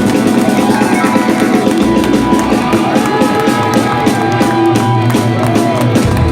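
Live heavy rock band playing loud, with distorted guitars and drum kit, heard through an audience recording in the hall; a sustained lead line bends in pitch over the band.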